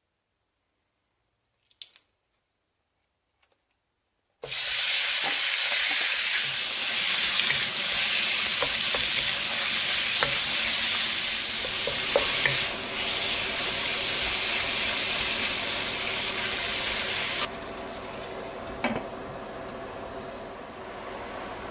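After a few seconds of near silence, strips of meat go into hot olive oil in a wok and sizzle loudly while a wooden spatula stirs them, with small scraping clicks. Near the end the sizzle drops suddenly to a duller, quieter hiss once a glass lid is on the wok.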